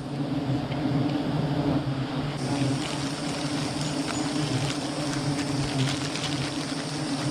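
Honey bees buzzing around the hive in a steady low hum.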